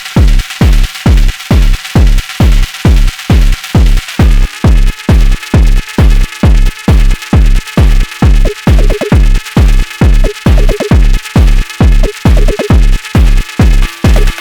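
Sonic Potions LXR-02 digital drum machine playing a techno groove: a steady, punchy kick about twice a second under hi-hats and percussion. More high percussion comes in about four seconds in, and a pitched percussive hit joins around halfway.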